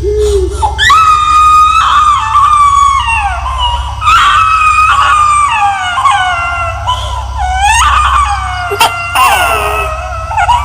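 Horror sound effect of a ghostly baby wailing: a string of high-pitched cries that each slide down in pitch, over a steady low drone.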